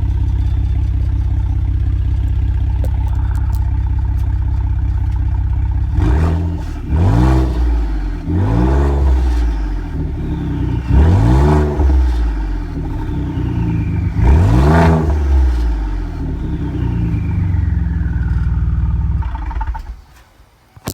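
2017 Ford Raptor's twin-turbo 3.5-litre EcoBoost V6, running straight-piped with the exhaust deleted, idling steadily and then revved four times, each rev rising and falling in pitch, with a falling turbo whine after the revs. The engine sound drops away near the end.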